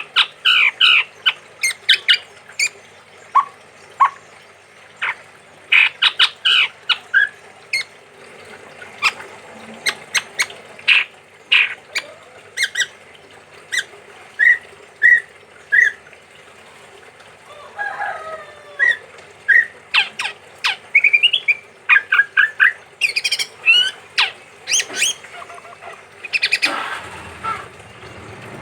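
Chestnut-rumped babbler calling: bursts of short, sharp, quickly repeated notes, pausing and starting again. A brief noisy rush comes near the end.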